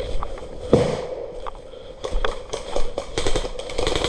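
Airsoft guns firing: scattered sharp pops and cracks, with one heavier knock just under a second in and a faster, denser run of shots in the second half.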